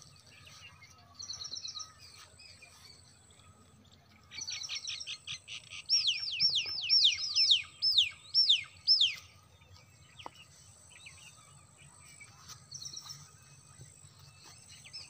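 Birds calling: short runs of high chirps, then about ten loud notes, each sweeping quickly downward, over about three seconds, and a few softer chirps near the end, over a low steady rumble.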